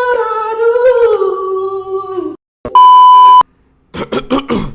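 A held, slightly falling voice-like note for about two seconds, then a loud single-tone censor bleep lasting well under a second, followed by a few quick clicks.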